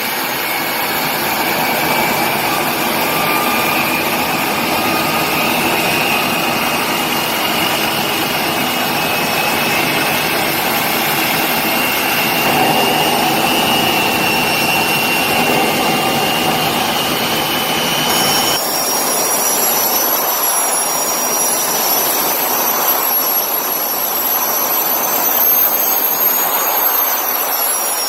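Lycoming T53 turboshaft engine running with a loud, steady roar and a turbine whine slowly rising in pitch. About two-thirds of the way through, the sound changes abruptly to a thinner, much higher-pitched turbine whine with less low roar.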